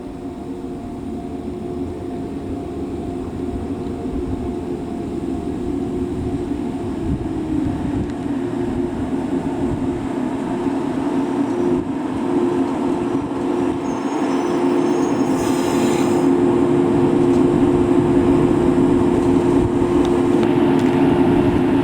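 Electric local train approaching along the track, growing steadily louder, with a steady low motor hum of two close tones. A short hiss comes about three-quarters of the way through.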